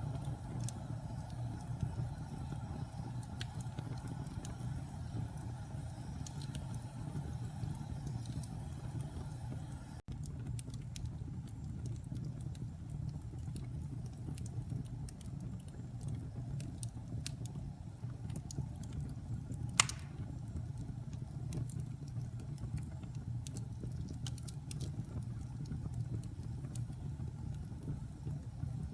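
Wood fire burning in a fireplace: a steady low rumble of the flames with scattered small crackles, and one louder pop about twenty seconds in.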